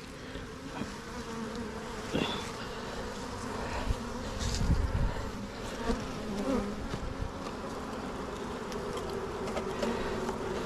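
A colony of honeybees from a knocked-over hive buzzing in a steady hum around the open frames. A few knocks and a low thump come near the middle.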